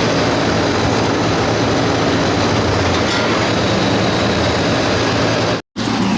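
Outdoor AC condensing unit running, a steady compressor hum under the rush of the condenser fan, cutting out for an instant near the end. The system is running low on refrigerant, with suction pressure around 62 psi, and the technician suspects a leak.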